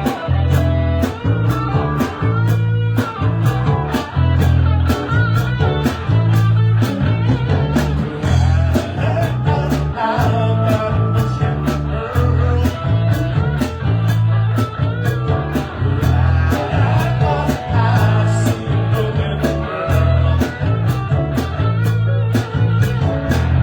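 Live band playing blues-rock, with guitar over a strong bass line and a steady cymbal beat.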